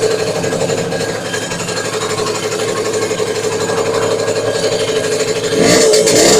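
Delta V-50 moped engine running with a rapid, jackhammer-like knocking, then revving up about five and a half seconds in. The knock is the unexplained fault the owner is asking about.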